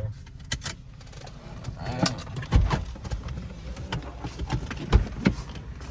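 People getting out of a car: a run of sharp knocks and thumps, the loudest about two and a half and five seconds in, over a low steady rumble, with a few murmured words.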